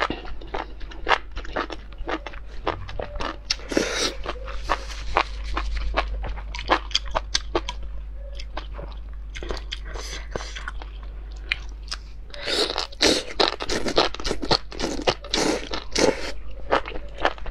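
Close-miked chewing and slurping of enoki mushrooms in chili oil: a fast, irregular run of wet, crunchy clicks, busiest in the last few seconds.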